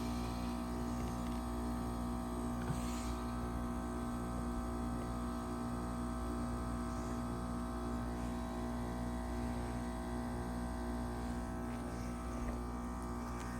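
A 2022 Trane XR14 3.5-ton heat pump outdoor unit running in a defrost cycle: a steady hum with several held tones.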